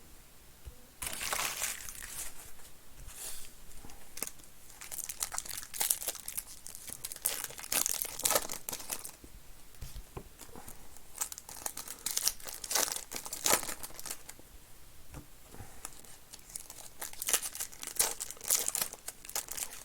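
Trading card pack wrappers being torn open and crinkled by hand, in a run of irregular rustling and tearing sounds.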